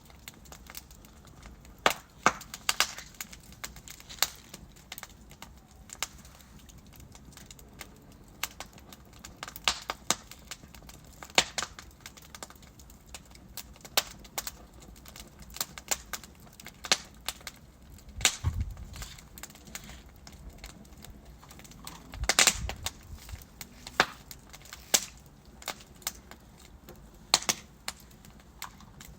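Wood fire of burning logs crackling, with sharp irregular pops over a low steady hiss. Two heavier pops with a low thud come about two-thirds of the way through.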